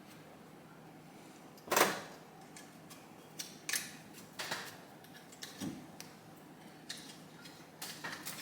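Metal engine parts clicking and knocking as they are handled during a teardown: one sharper knock about two seconds in, then a scattering of lighter clicks.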